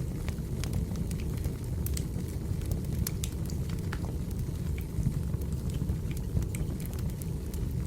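Firewood burning: a steady low rumble with scattered sharp crackles and pops.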